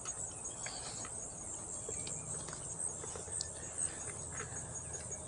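Insects chirring steadily in a high pitch, with a fast even pulse, and a few faint ticks and taps underneath.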